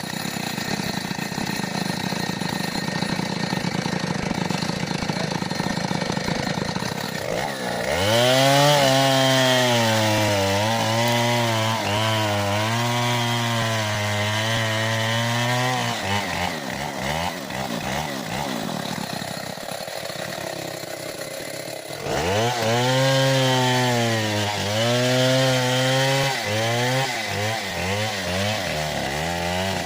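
Stihl 070 two-stroke chainsaw cutting wood. It runs at a lower note, then opens up to full throttle about eight seconds in, its pitch wavering under load. It eases off about halfway through and opens up to full throttle again.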